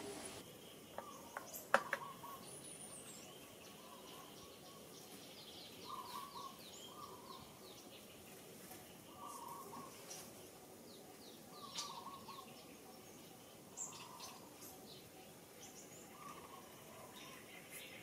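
Faint outdoor birdsong: a bird repeats a short call every two to three seconds while other birds chirp higher up. A single sharp click comes about two seconds in.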